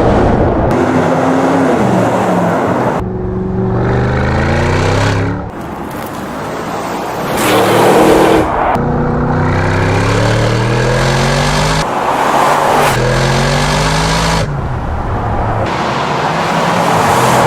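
Audi RSQ8's twin-turbo V8 through a Quicksilver stainless sports exhaust, accelerating hard: the engine note rises again and again, each climb cut off by a brief drop at a gear change, loudest about halfway through.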